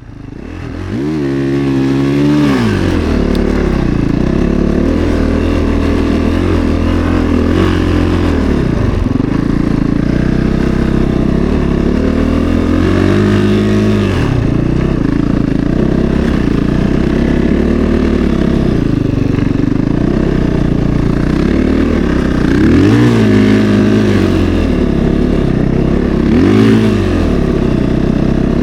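Snowbike's single-cylinder 450 four-stroke engine running under load, its pitch rising and falling again and again as the throttle is opened and eased.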